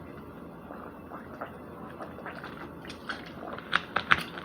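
Close-up eating sounds of someone chewing chicken nuggets: small wet clicks and smacks, getting busier in the second half, with two louder ones near the end.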